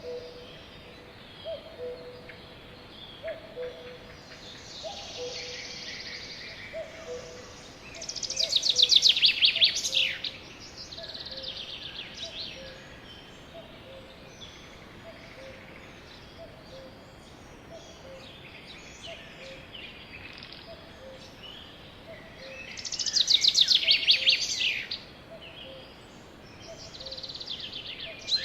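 Sparrows singing: scattered high chirps, with two loud rapid trills of about two seconds each, a third of the way in and again near the end. A low two-note call repeats steadily underneath.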